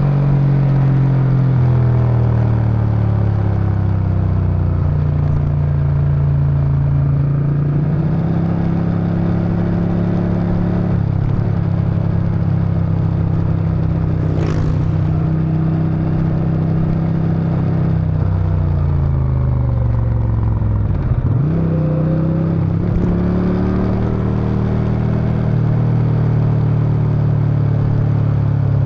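Suzuki Intruder VS800's V-twin engine and exhaust under way, its note rising and falling repeatedly with throttle and gear changes. Past the middle the note sinks low as the bike slows, then climbs again. A brief sharp sound comes about halfway through.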